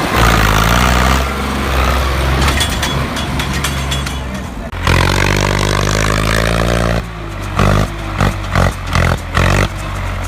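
Tractor diesel engine running hard, with an abrupt change in its sound about halfway through. Near the end it goes in rapid pulses, two or three a second.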